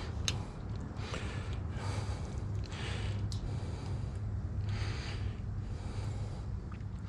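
A person's breathing close to the microphone, recurring roughly every second over a low steady hum, with a couple of light clicks.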